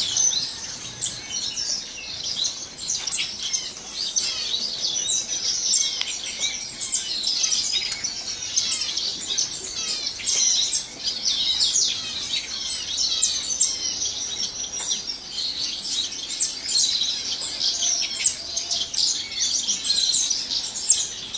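A flock of small caged exotic birds chirping and twittering together in a continuous, overlapping chorus of short high-pitched calls.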